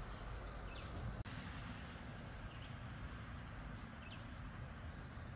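Quiet woodland ambience with faint short bird chirps, about five scattered through it, and one soft click early on.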